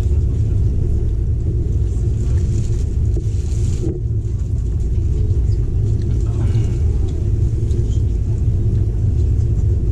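Steady low rumble of a moving intercity train heard from inside the passenger coach. A high hiss over it cuts off abruptly about four seconds in.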